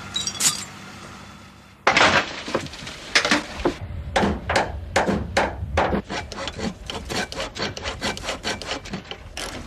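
Quick, irregular rubbing or scraping strokes of hand work, several a second, starting about two seconds in after a faint engine hum dies away.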